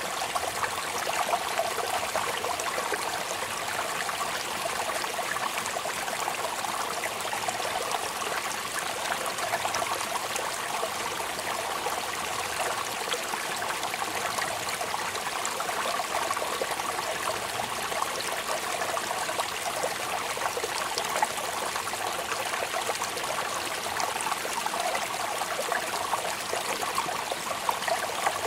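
Steady rain falling: an even rushing hiss dotted with the fine patter of drops.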